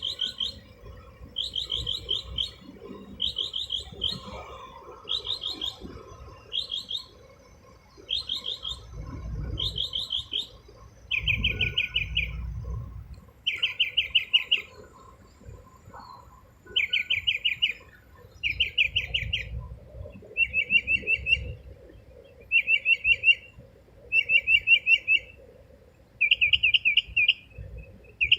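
A songbird imitating a car alarm: a series of rapid, pulsing chirp phrases, each about a second long, repeated roughly every one and a half seconds. The phrases drop to a lower pitch about a third of the way through and keep cycling like an alarm's repeating tones.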